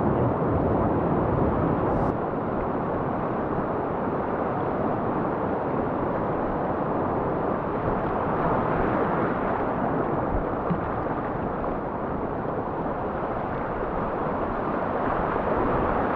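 Rushing whitewater of a swollen mountain river: a steady, loud roar of rapids with no let-up.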